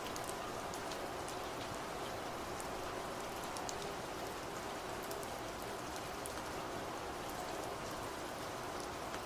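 Steady rain falling, with many individual drops pattering distinctly over an even hiss.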